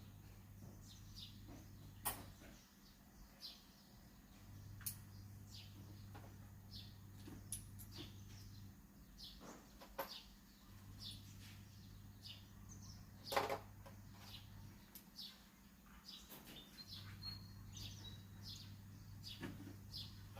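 Faint bird chirps and a few sharp knocks, the loudest about 13 seconds in, over a low hum that cuts in and out every few seconds.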